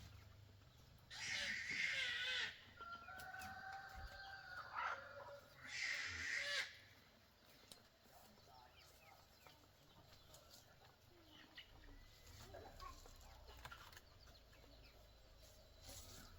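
Chickens calling: two loud, harsh calls, each a second or more long, about a second in and again about six seconds in, with quieter calls between them. Low, faint farmyard sound follows.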